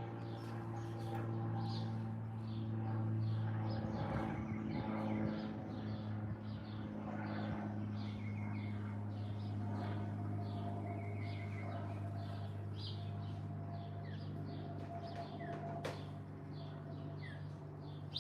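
Garden songbirds chirping in quick, repeated short calls over a steady low hum.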